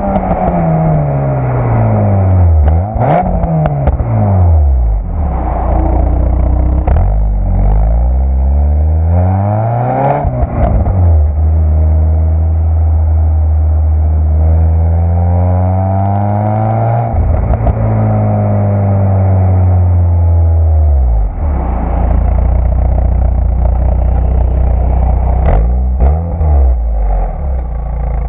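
Citroën Saxo VTS's 1.6-litre 16-valve four-cylinder engine on its stock exhaust, repeatedly rising and falling in pitch. It climbs under revs, drops back sharply and holds steady stretches, with a few short knocks at the changes.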